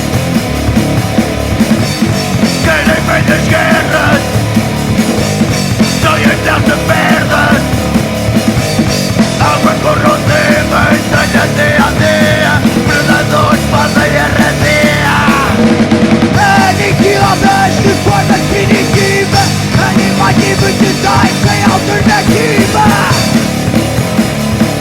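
Punk rock band playing live, loud and dense throughout.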